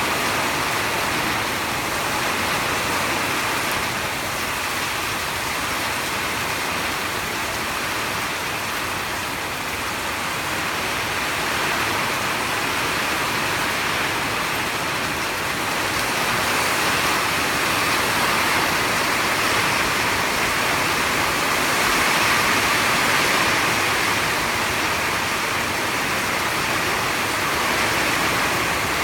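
Heavy rain pouring down in a steady hiss, growing a little heavier past the middle.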